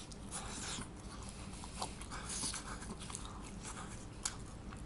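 A person chewing a mouthful of pizza, with scattered soft mouth clicks and smacks over a low steady hum.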